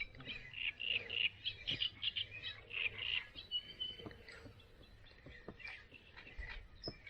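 Wetland animals calling: quick runs of short, high calls, thickest in the first few seconds, with a brief held whistle near the middle, then growing sparse.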